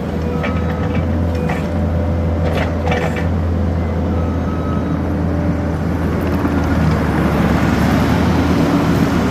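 New Holland C232 skid steer's diesel engine running steadily, with a few light clanks in the first three seconds; it gets a little louder over the last couple of seconds.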